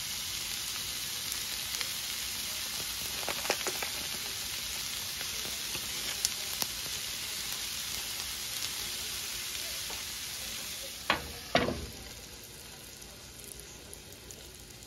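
Shredded chicken and cheese sizzling steadily on a hot griddle pan, with a few light ticks. About eleven seconds in there are two sharp clacks as a glass lid is set on the pan, and after that the sizzle is quieter, muffled under the lid.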